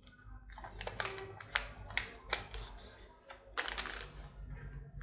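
A sheet of paper being folded and creased by hand: a string of short, sharp rustles and crackles as the corner is folded in and pressed flat.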